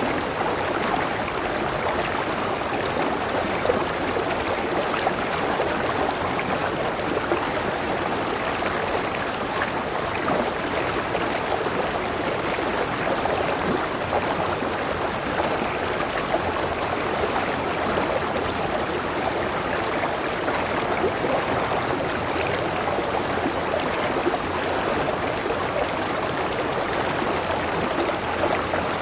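River water tumbling over a waterfall: a steady, even rushing and splashing with no breaks.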